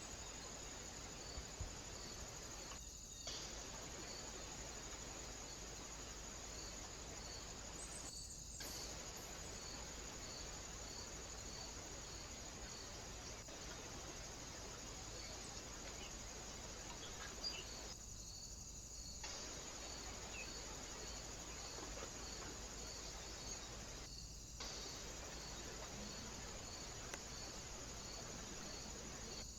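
Crickets chirping faintly and steadily, an even high chirp about twice a second, over a low hiss, with a few brief dropouts.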